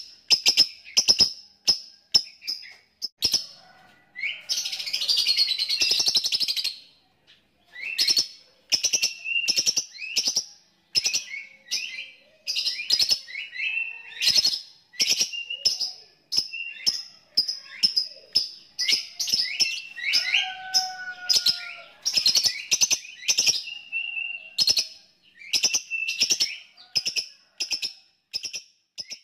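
Lovebird calling in a run of short, sharp chirps, with one long unbroken chattering trill about five seconds in.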